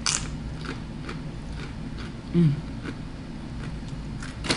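Biting into a crisp fried corn tortilla chip with a sharp crunch, then chewing it in small crunches, with a short closed-mouth "mm" about halfway and another louder crunch near the end.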